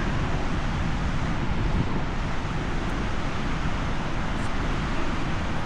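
Steady low rumble with a rushing hiss of wind on the microphone, unbroken throughout.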